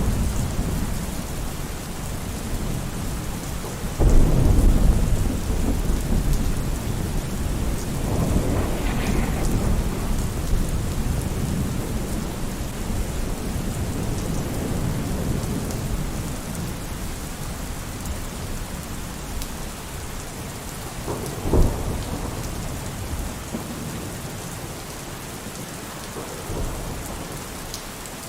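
Steady heavy rain falling with thunder: a loud rumble breaks in about four seconds in and rolls on for several seconds, and a sharper crack comes about three quarters of the way through.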